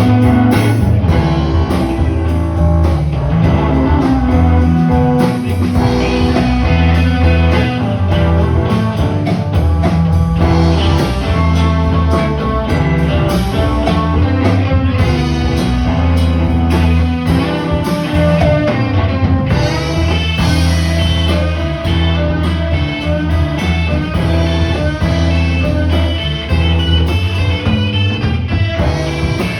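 Live instrumental music led by guitar, over a steady low bass line.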